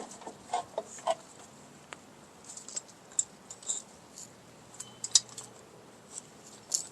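Scattered small metallic clicks and clinks from steel drum-brake springs and hardware being handled and fitted by hand.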